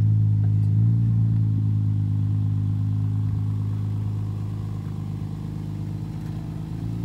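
Infiniti G35-based V6 engine of a Vaydor kit car running at low speed, with slight changes in pitch as the throttle moves. Its steady hum slowly fades over the seconds.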